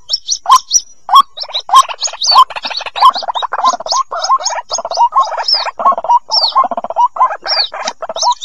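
White-breasted waterhen chicks calling over and over: quick high peeps mixed with lower, rapidly pulsed calls that crowd together for most of the stretch, the sound used as a lure for the birds.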